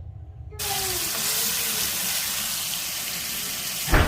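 Rushing, hissing water that starts suddenly about half a second in and runs steadily, with one sharp thump near the end.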